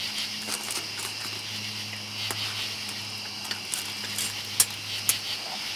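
Steady chorus of night insects, a dense high-pitched buzzing trill, with scattered sharp clicks over it, the loudest a little before the end.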